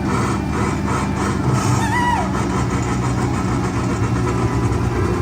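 Casey Jr. Circus Train ride train running with a steady low rumble and an even chugging beat in the first second or so. A short pitched sound bends up and down about two seconds in.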